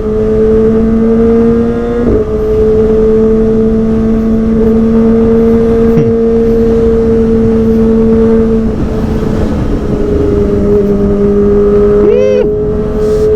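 Kawasaki ZX-25R's inline-four engine through a Prospeed Shark Black aftermarket exhaust, running hard at a steady high pitch while riding. The note dips briefly about two seconds in and again near nine seconds in, over a rush of wind.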